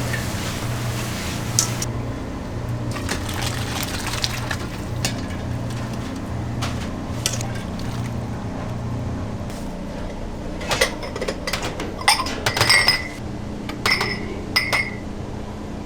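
Kitchen clatter over a steady low hum: a rushing hiss like running water stops about two seconds in, and near the end comes a run of sharp clinks of glass or metal dishes that ring briefly.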